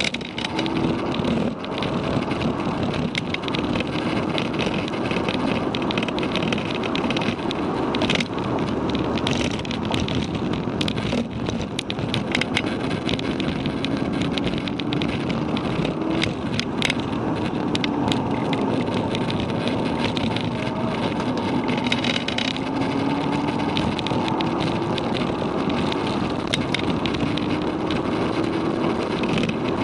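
Inside the cabin of a Volkswagen Golf GTI (Mk6) running hard on track: its 2.0-litre turbocharged four-cylinder engine pulls with a note that climbs slowly for about the first half, drops and falls away past the middle, then climbs again, all over steady wind and tyre noise.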